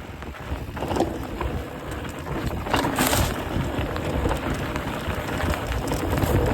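A vehicle rumbling slowly over deep ruts on a rain-damaged trail, with wind buffeting the microphone and a brief rushing noise about three seconds in.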